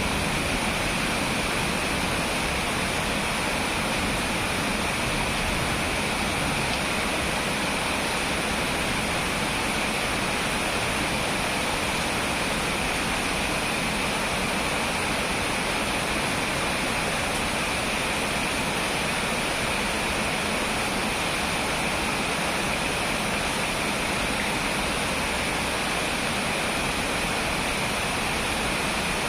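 Rain falling steadily during a thunderstorm, an even, unbroken rushing noise.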